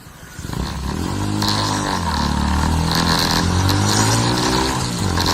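Motorcycle engine accelerating hard from about half a second in, its pitch climbing and dropping back several times as it shifts up through the gears.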